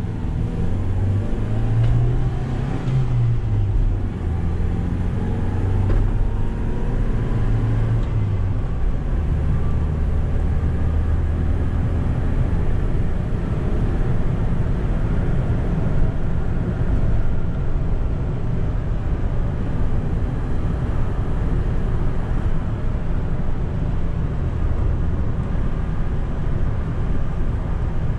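Toyota 2Y 1.8-litre four-cylinder gasoline engine of a Hiace truck, heard from inside the cab while driving, with road noise. The engine note rises over the first few seconds, then runs steadily.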